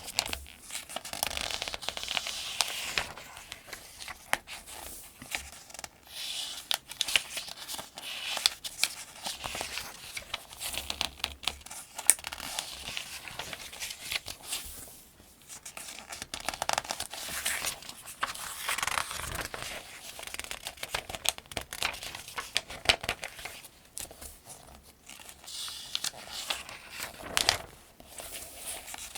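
Paper pages of the Farmers' Almanac being turned one after another, crisp rustles and snaps of thin paper with short pauses between turns.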